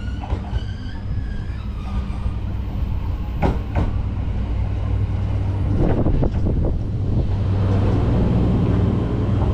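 Electric commuter train pulling into the station alongside the platform. Its running gear hums steadily and grows louder as it draws level, with sharp clacks of the wheels over rail joints about three and a half seconds and six seconds in.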